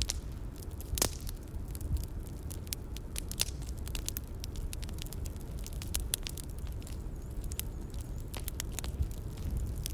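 Bonfire ambience: wood fire crackling with irregular sharp pops over a steady low rumble, the loudest pop about a second in.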